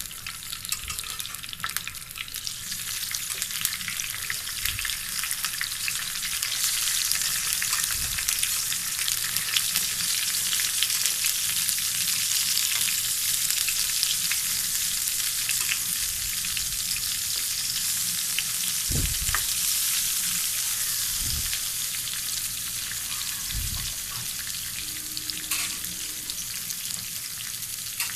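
Slices of brinjal (aubergine) sizzling as they fry in hot oil in a karai, a dense crackling sizzle that grows louder over the first several seconds and then holds steady, with a few dull knocks.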